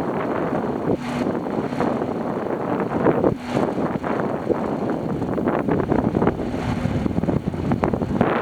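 2017 Freightliner Cascadia tractor's diesel engine running, with wind buffeting the microphone.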